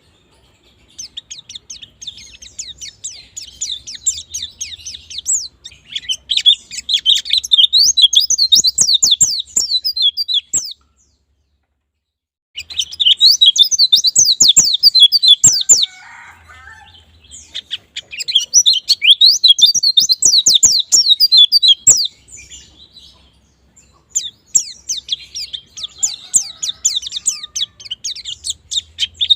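White-eye (pleci) singing in rapid, high chirping bouts of about four to five seconds each, with short pauses between them. It is the fast forest-style song used as a lure to get caged white-eyes singing.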